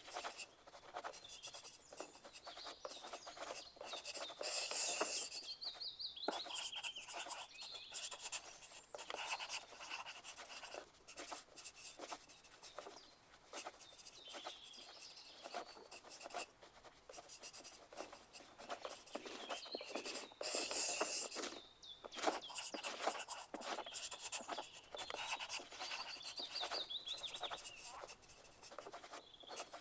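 Pencil writing on paper: a continual run of short scratching strokes and light taps, as of exam answers being written, growing louder for a couple of seconds twice.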